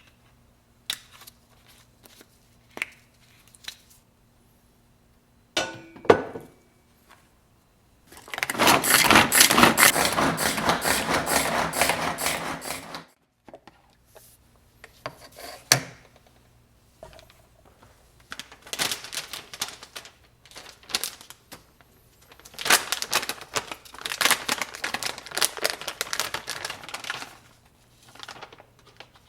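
Kitchen work sounds: scattered clicks and knocks, then two stretches of about five seconds each of fast, dense knocking, the first about eight seconds in and the second near the end, over a faint steady hum.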